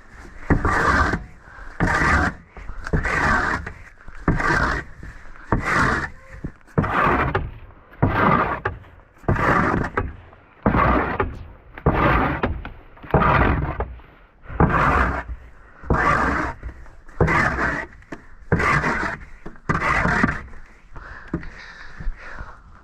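Rhythmic scraping strokes of snow being cleared by hand, about one stroke every second or so, each a short thud-and-scrape.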